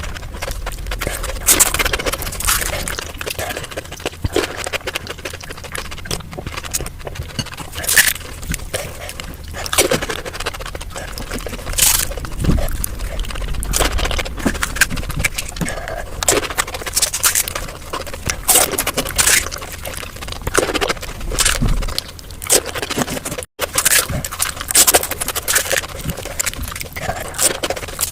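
Golgappa being eaten, played back very fast: a dense run of crisp puri shells crunching between the teeth, mixed with slurping of the spiced water.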